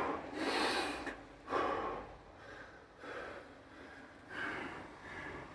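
A man breathing hard from exertion, several heavy gasping breaths a second or more apart, as he recovers between reps of Navy SEAL burpees.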